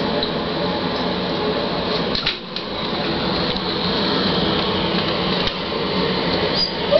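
Steady mechanical hum, as from a running household appliance. Near the end, a husky puppy gives a short rising-and-falling whine.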